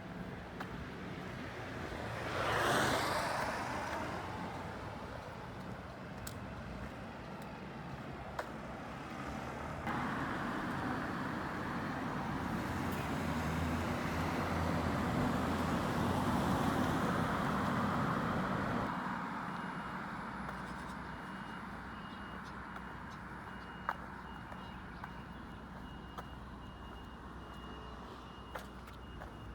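Road traffic going by: one vehicle passes close and quickly about three seconds in, then a longer, louder pass rises and fades over several seconds midway, leaving a quieter steady traffic hum.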